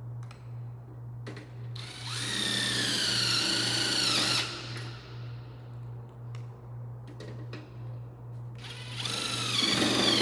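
Cordless drill-driver driving wafer head screws through steel track into light-gauge steel studs, in two runs. The first run lasts about two and a half seconds and the second is shorter, near the end. Each is a whine that dips in pitch as the screw seats.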